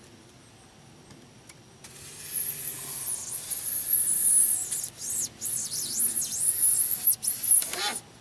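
Utility knife blade drawn through rigid foam board, a loud, high-pitched, wavering squeak in uneven strokes with short breaks, starting about two seconds in and stopping just before the end.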